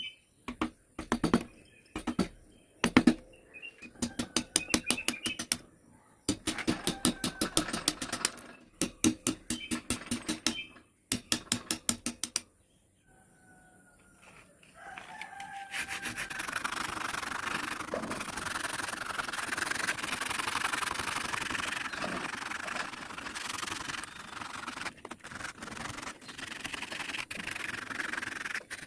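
Hand tools working wood: bursts of quick, even rasping strokes over the first dozen seconds, then continuous rubbing like sanding for the rest.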